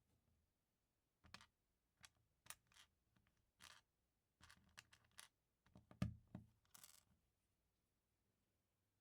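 Small plastic LEGO pieces being handled and pressed together: a faint string of soft clicks and rustles, the loudest a knock about six seconds in, stopping a second or so later.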